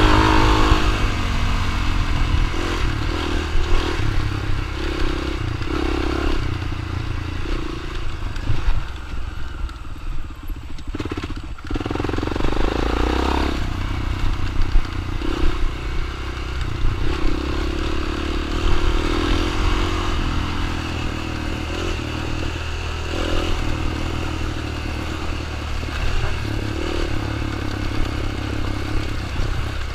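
Dirt bike engine running continuously, its note rising and falling with the throttle, with some clatter and scraping alongside and a brief lull about eleven seconds in.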